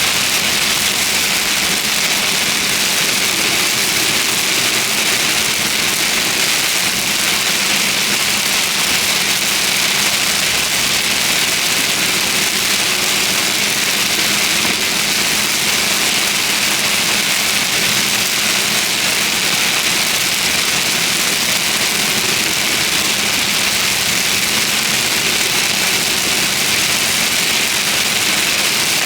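Rain on a car driving through a thunderstorm: a constant, even hiss over a low, steady engine and road noise.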